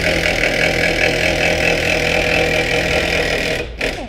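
Impact wrench running steadily as it winds the screw of a welded-up car scissor jack, stopping near the end and followed by one short burst.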